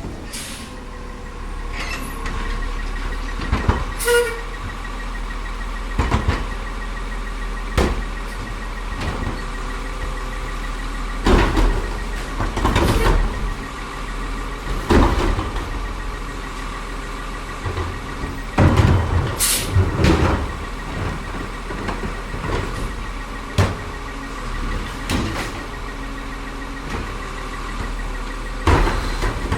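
CCC LET2 Heil split-body garbage truck working its route: the engine and hydraulics run with a faint steady whine, broken by irregular loud clanks and bangs of the collection equipment, the loudest in a cluster midway and again near the end.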